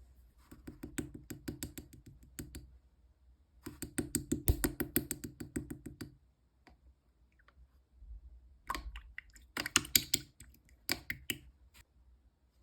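Clear slime being pressed and squished by hand, giving off quick runs of sharp clicking pops from the air bubbles, in three bursts.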